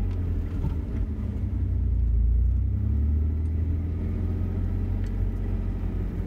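Jeep engine running at low revs as it crawls along an off-road trail, a steady low rumble that swells slightly about two seconds in and eases off again.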